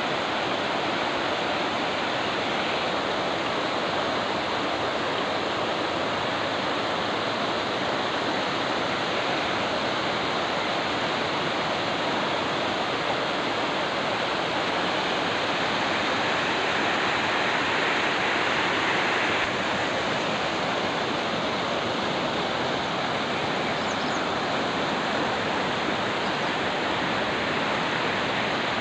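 Kameng River water rushing, a steady, unbroken rush of noise, slightly louder for a few seconds past the middle.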